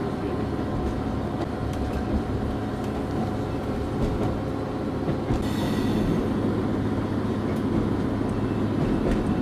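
Steady rumble of a diesel regional train running on the rails, heard from inside the passenger car, with a brief hiss about five and a half seconds in.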